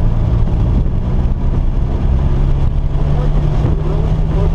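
Car engine running at a steady, loud note, its pitch shifting only slightly, with a constant low background noise.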